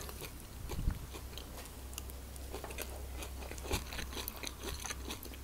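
Close-up chewing of a mouthful of quinoa salad with cucumber and corn: soft, irregular wet mouth clicks and small crunches over a faint low hum.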